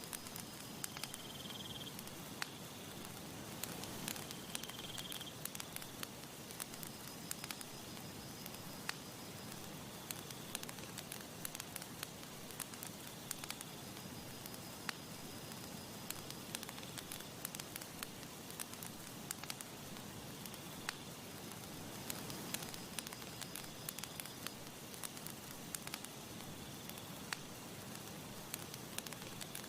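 Campfire crackling: frequent, irregular sharp pops and snaps of burning wood over a steady hiss of the flames.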